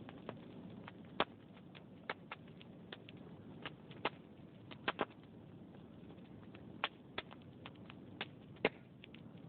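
Wood fire in a fireplace crackling, with irregular sharp pops over a low steady rush of burning logs; the loudest pops come about a second in and near the end.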